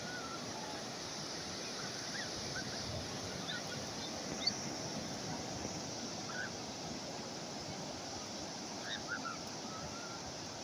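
Calm sea waves washing steadily, with short bird calls scattered over them, the sharpest about four and a half seconds in and a small cluster near the end.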